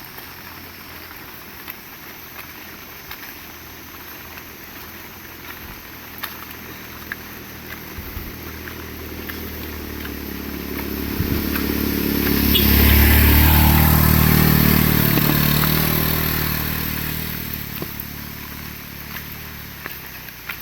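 Steady rain with scattered drips. A motor vehicle's engine approaches, passes close about halfway through, and fades away.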